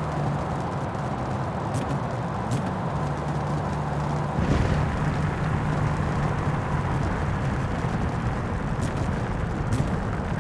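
Porsche Speedster's flat-six engine cruising at a steady pitch, under an even rush of wind and road noise, with a brief surge about halfway through.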